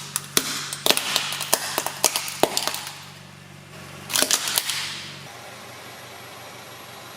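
Brittle objects cracking and popping as a car tyre crushes them: a quick run of sharp cracks, then a second burst about four seconds in, over a low steady hum that stops soon after.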